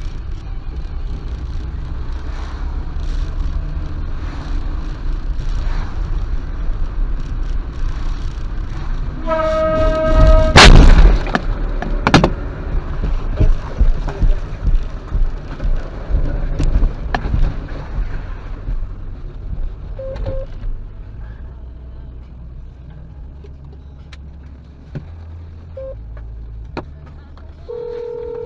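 Dashcam recording of a car collision: steady road and engine rumble, a horn sounding for about a second, then a loud crash impact about ten seconds in, followed by a run of sharp knocks and clatters. Later come a few short beeps and a steady tone near the end.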